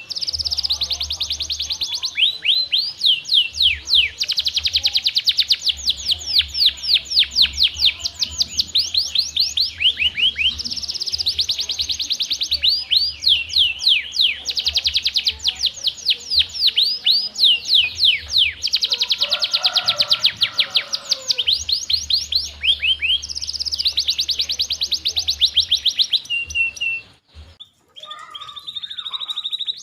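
Domestic canary singing a long, fast song of rapid trills and repeated downward-sweeping notes, with a short break near the end.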